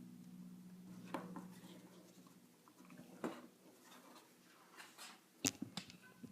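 Scattered light clicks and taps from small wooden window-sill parts being handled and fitted together while a dowel is glued in, the sharpest about five and a half seconds in. A faint low hum fades out in the first couple of seconds.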